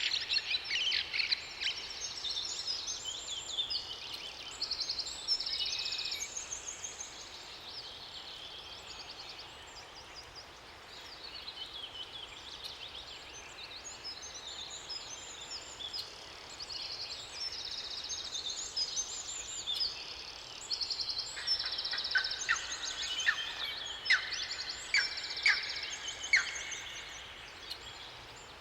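Several songbirds singing at once, a mix of fast trills and chirps over a faint steady background hiss, with a run of louder, sharper notes about three quarters of the way through.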